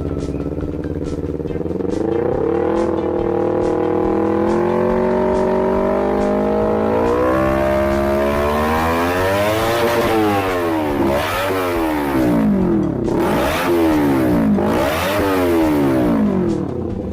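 Motorcycle engine with an aftermarket racing exhaust, idling and then revved up and held at higher revs. From about ten seconds in it is blipped hard several times in quick succession, each rev rising and falling sharply.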